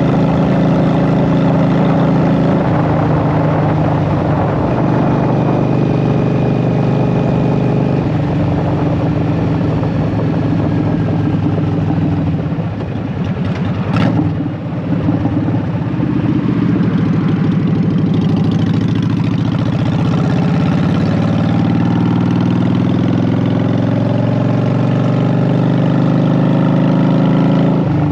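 Honda Shadow VT750's V-twin engine running through Vance & Hines Short Shots pipes while riding, steady at first with a couple of steps in pitch. Around the middle it drops off briefly with a single sharp click, then the engine note climbs steadily as the bike pulls away.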